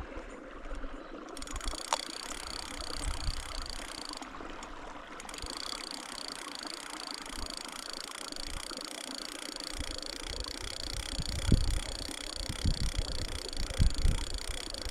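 Fishing reel being cranked to retrieve a lure, its gears giving a steady rhythmic whirr of about two pulses a second that stops briefly around four seconds in, then resumes. A few low thumps of handling come near the end.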